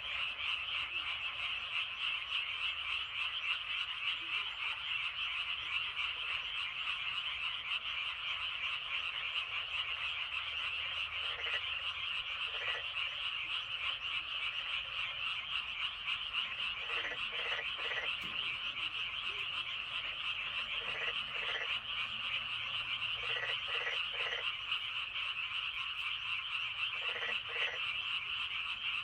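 Dense chorus of many frogs calling at once, a steady unbroken mass of calls. From about a third of the way in, louder single croaks in twos and threes stand out against it.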